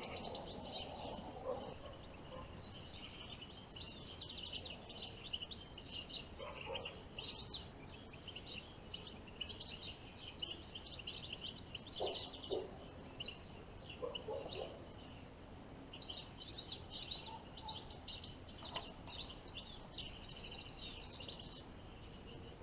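Goldfinches singing, a dense, near-continuous high twittering chatter.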